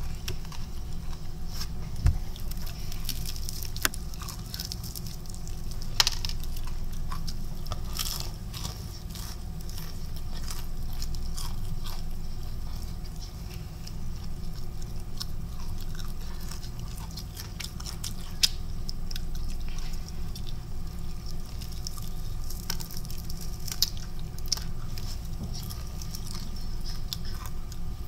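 Mouth sounds of eating fried chicken close to the microphone: chewing and crunching of the crispy breading, with scattered crackles and a few sharp clicks, over a steady low hum.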